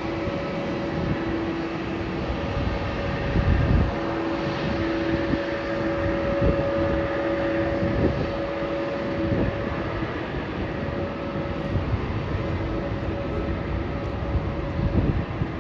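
Jet engines of an Airbus A330 airliner on its landing roll: a steady rumble with two held whining tones. Low gusts of wind thump on the microphone, one about four seconds in.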